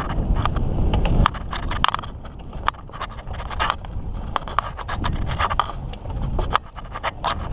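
Mountain bike rolling over rough trail: tyres scraping and crunching on dirt and the bike rattling with irregular sharp clicks over bumps. A low rumble, such as wind on the microphone, sits under it for the first second or so, then drops away.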